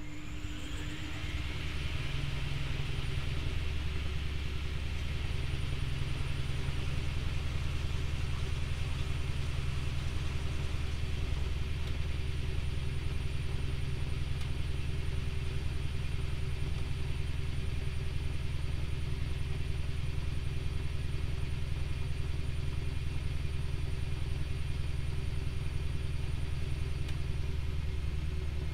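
Privileg Multispar 5110 washing machine spinning its drum: the motor runs up over about two seconds, then holds a steady low hum.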